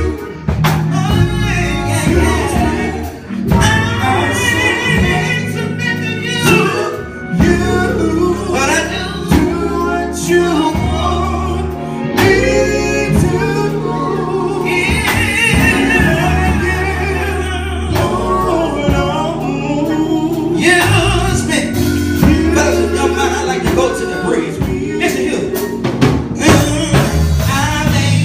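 Gospel song: singing over a steady instrumental backing with sustained bass notes.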